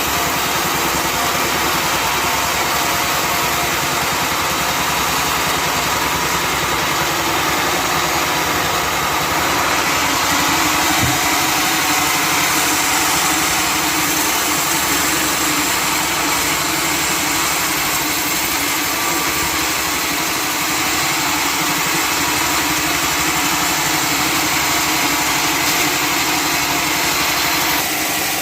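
Sawmill running steadily: a continuous mechanical drone of its motor and saw, with no pauses.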